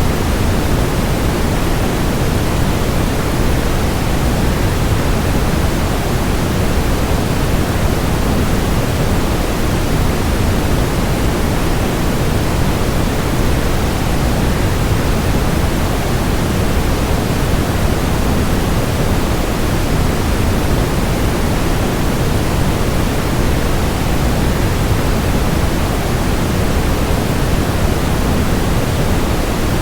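Steady, even rushing noise of a waterfall blended with white noise, heavier in the low end and unchanging.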